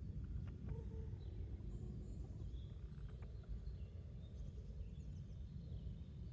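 Quiet outdoor garden ambience: a steady low rumble with faint, scattered bird chirps and a few soft clicks.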